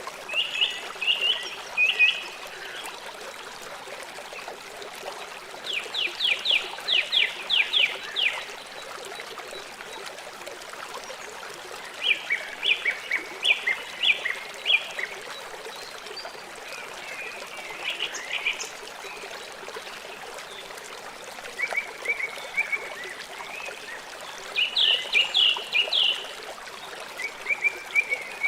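River water flowing steadily, with an animal calling every few seconds in short series of quick, high notes.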